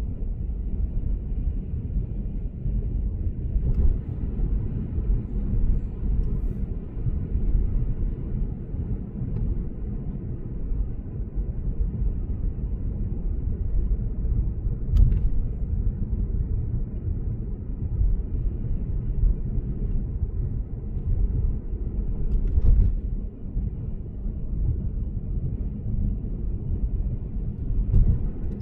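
Steady low road and tyre rumble of a Lexus GS450h cruising on an expressway, heard from inside the car. Short sharp knocks break through about four times.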